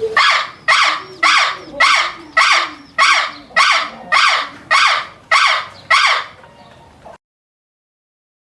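A bird giving one loud, harsh call note over and over, about twelve times at an even pace of nearly two a second, then cutting off abruptly.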